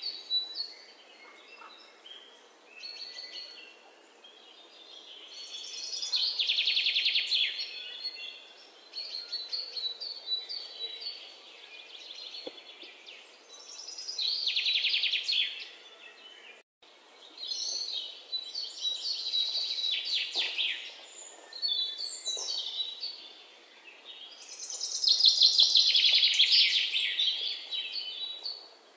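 Birds chirping and trilling, in high-pitched bursts of a second or two that recur several times, the loudest near the end.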